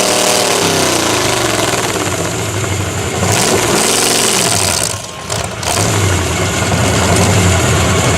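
A mud truck's engine revving hard. Its pitch falls away early, rises and falls in one quick rev about four seconds in, dips briefly about a second later, then runs on steady and loud.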